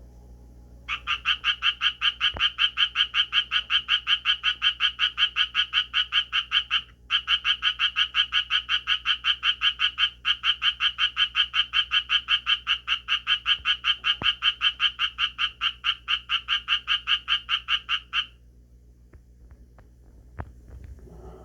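Japanese tree frog calling: a long, rapid run of rasping croaks at about four a second, starting about a second in, breaking off briefly near the seven-second mark, then going on until it stops with a few seconds to go.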